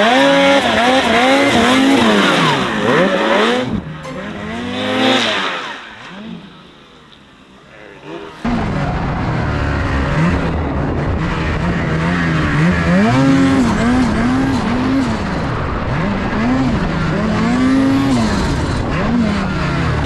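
Snowmobile engine revving up and down repeatedly over a series of jumps. The revs fall away to a lull about six seconds in, then the engine comes back abruptly and keeps revving hard.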